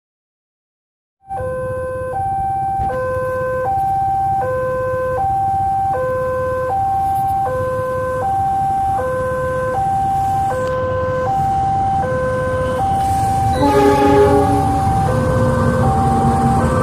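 Electronic two-tone warning alarm at a railroad level crossing, alternating between a high and a low tone about every three-quarters of a second, over a steady low rumble. A lower cluster of tones cuts in about three-quarters of the way through.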